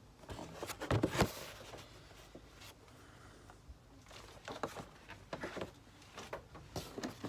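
Cardboard-and-plastic toy packaging being handled: two sharp knocks about a second in, then light rustling and small taps.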